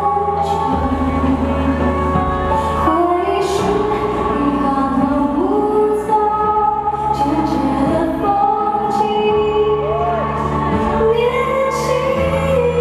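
Live pop ballad: a woman singing sustained, gliding notes over band accompaniment with a steady bass.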